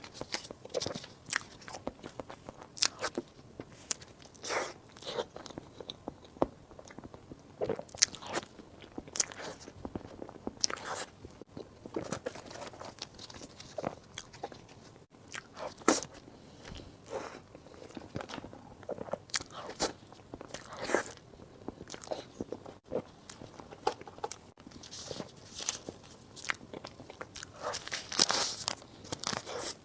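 Close-miked eating: a person biting and chewing food, with many irregular sharp clicks and smacks, and a longer hissy burst near the end.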